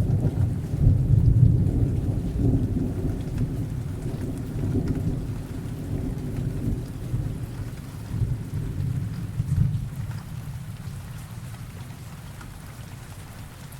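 A thunderstorm: a long, deep roll of thunder swelling and fading several times, dying away by the end, over steady rain.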